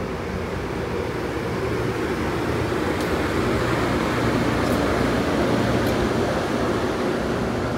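Amtrak bilevel passenger train departing slowly past at close range: a steady rumble of wheels on rail with the hum of the car's equipment, swelling toward the middle, with a few faint high clicks.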